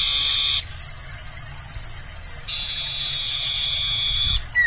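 Sirtu owl screeching: one long hissing screech cuts off about half a second in, and a second one of about two seconds follows halfway through. A short falling whistle comes right at the end.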